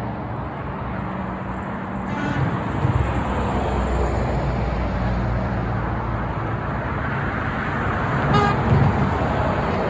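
Heavy trucks passing on the highway: a steady drone of engines and tyre noise that slowly swells, with a short horn toot about eight seconds in.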